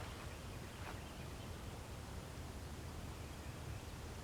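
Quiet outdoor ambience in woods and meadow: a steady low rumble with a faint bird chirp about a second in.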